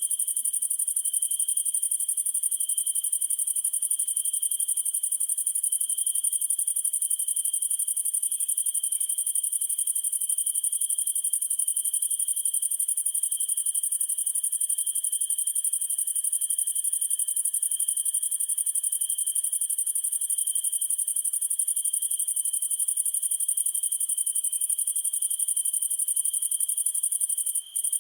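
A summer night chorus of crickets and other insects trilling steadily, one high continuous band over a lower, slightly pulsing chirp, with a momentary break near the end.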